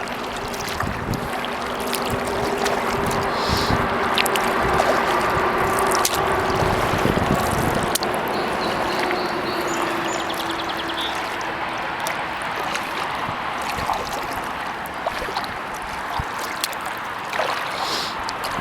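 Kayak paddle strokes in shallow pond water, with water trickling and dripping off the blade as the hull glides.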